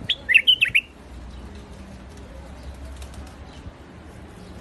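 White-eared bulbul singing one short, loud phrase of about five quick whistled notes within the first second.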